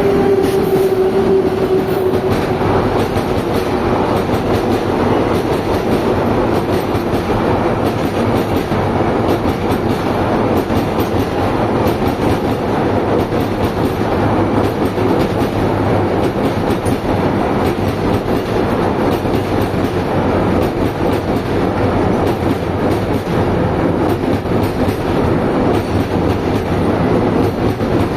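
Indian Railways container goods train going past: steady loud noise of the wagons running on the rails. A held horn tone fades out in the first two seconds.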